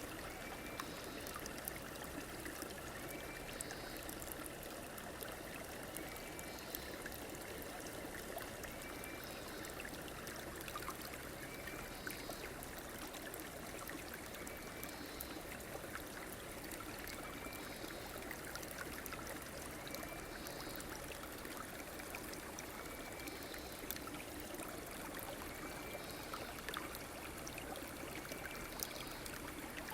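River water flowing steadily, a continuous rushing trickle. A faint short call repeats every two to three seconds above the water.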